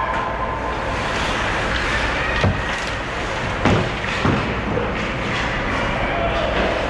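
Ice hockey rink ambience: a steady wash of arena noise with three sharp knocks in the middle, the second the loudest.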